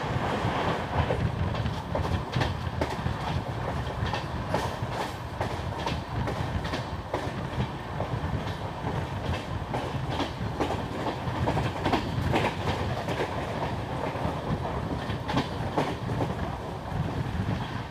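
Express passenger train running at speed, heard from an open coach door: a steady rumble from the wheels and coaches with frequent sharp clicks as the wheels pass over rail joints.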